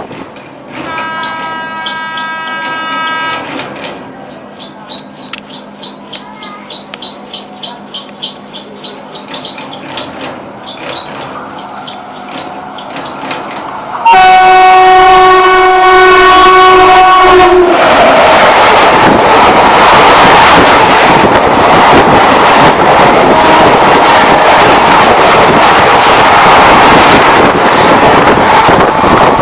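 Indian express passenger train approaching and passing at speed: a horn blast about a second in, wheels clicking regularly over the rail joints as it nears, then a second, louder horn blast as it arrives about halfway through, followed by the loud rush and rattle of the coaches going by.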